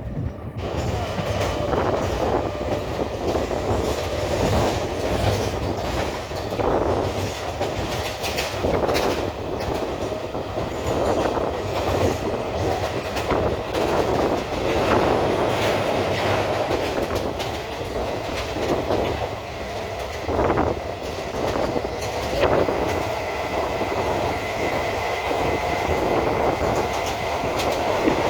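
Electric suburban local train (EMU) running, heard from on board: a steady rumble of wheels on the track with frequent, irregular clacks and knocks.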